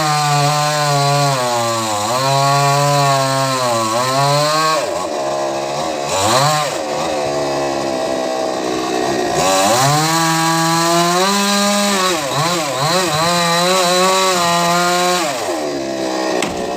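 Chainsaw cutting coconut tree wood, its engine speed rising and falling again and again as the chain bites. Around five seconds in it drops to a low speed, then revs back up and runs steadily under load until it sags again near the end.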